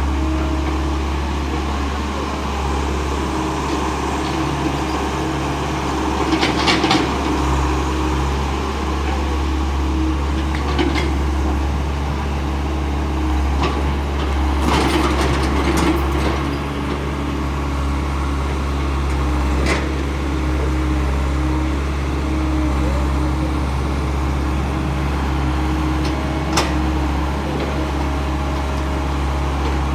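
A heavy-vehicle diesel engine running steadily at an even pitch, with a few short knocks and clatters scattered over it, the longest about halfway through.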